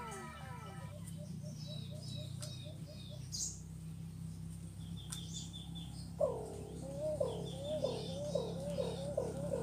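Caged decoy bird calling: a series of short, low, down-slurred notes that begins about six seconds in and comes faster toward the end, with faint high chirps of other birds before it.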